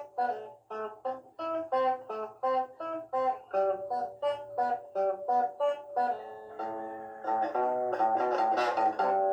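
Instrumental guitar music: single notes picked one by one at a steady, even pace, giving way about six seconds in to fuller, ringing chords and quicker notes.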